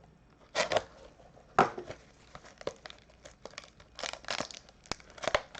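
Crinkling of a trading-card pack wrapper being handled, in irregular short crackly bursts with a few clicks.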